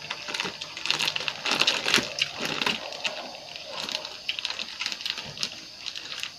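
A person eating close to the microphone: irregular clicks and smacks of chewing.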